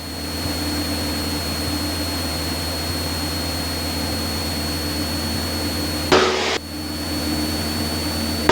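Steady drone of a light aircraft's engine and propeller, heard from inside the cockpit through the intercom with a thin constant high whine over it; it swells up at the start and has a short burst of noise about six seconds in.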